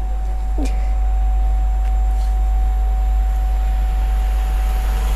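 Virgin Pendolino Class 390 electric train approaching, a steady low rumble growing slowly louder, with a steady high-pitched whine that stops near the end.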